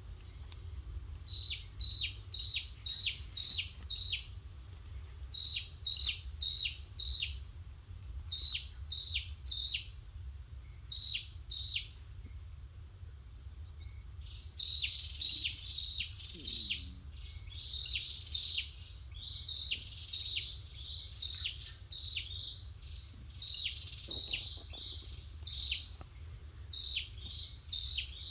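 Small birds chirping: quick runs of short downward chirps, several a second, growing into a denser chorus about halfway through, over a low steady rumble.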